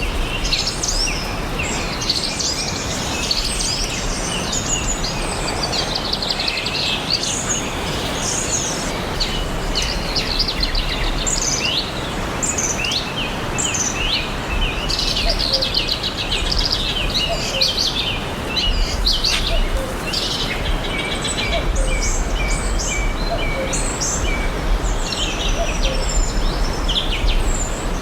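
Many small birds chirping and singing at once in a forest, a continuous chorus of overlapping chirps and rapid trills over a steady background hiss and a low rumble.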